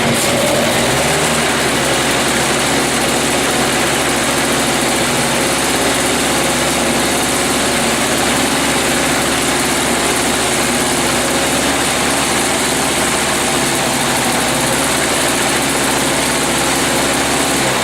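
Toro S-200 single-stage snowblower's two-stroke engine catching at once and then running steadily at a fast idle. This is a primed cold start after more than a year unused, with a rebuilt carburetor.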